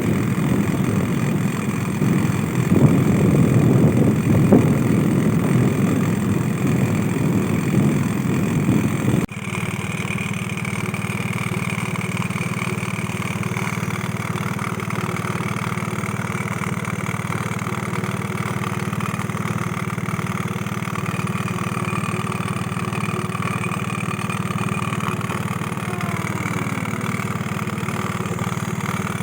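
A motor engine running steadily. For the first nine seconds a rough, loud low noise lies over it; this cuts off abruptly, leaving an even, steady engine hum.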